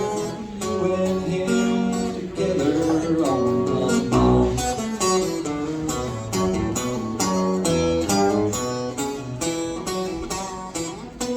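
Acoustic guitar strummed and picked in a country song played live.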